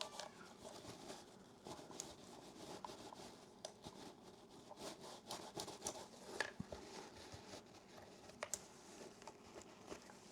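Faint rubbing and scratching with scattered small clicks and ticks: hands wiping and handling a small metal camera body during cleaning.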